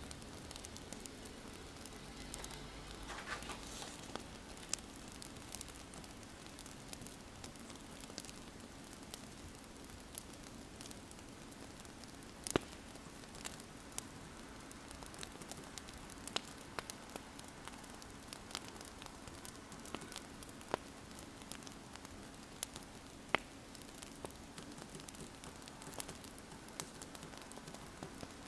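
Wood fire crackling: a steady soft hiss broken by scattered sharp pops, with a faint low hum underneath. A brief scratchy stretch comes about three seconds in.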